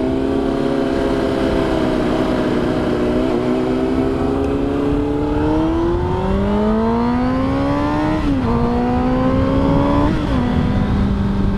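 Honda CBR600RR inline-four engine pulling through the gears. It holds a steady note, then the revs climb from about halfway, drop sharply at an upshift, climb again and drop at a second upshift near the end, then hold steady. Wind noise runs underneath.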